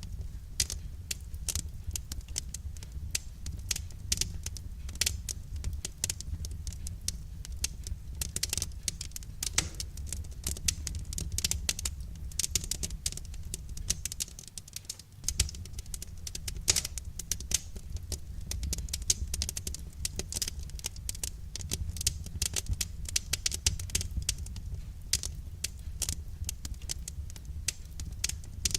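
Wood fire crackling and popping in a fireplace: a dense, irregular run of sharp snaps over a steady low rumble, with a brief lull about halfway through.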